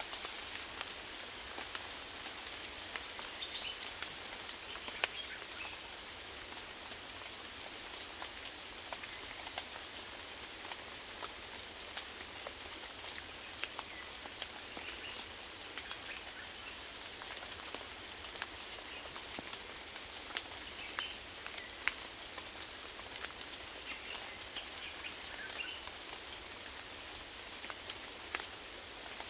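Steady rainfall: an even hiss with many separate drops ticking sharply throughout. A few faint, high chirps come through now and then.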